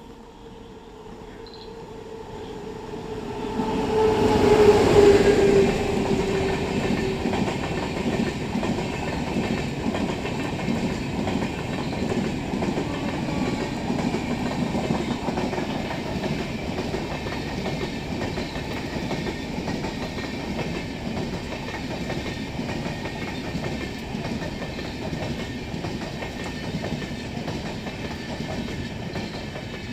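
Electric-locomotive-hauled passenger train passing close by. Its horn sounds on the approach and drops in pitch as the locomotive goes past about five seconds in. The coaches' wheels then clatter steadily over the rail joints.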